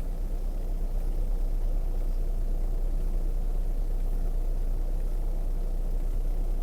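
Vehicle engine running steadily, heard as a constant low rumble with no change in pace.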